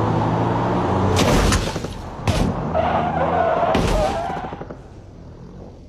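Car crash: an engine running, then heavy collision impacts about a second in, two seconds in and near four seconds, with a tyre squeal between the last two. The sound drops away to a faint background near the end.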